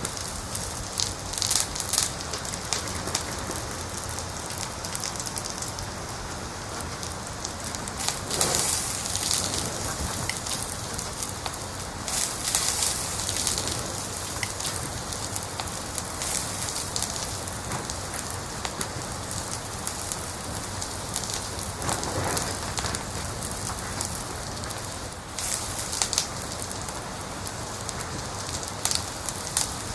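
Wood fire crackling in a fireplace: a steady hiss full of small pops and snaps, with several denser flurries of crackling through the stretch.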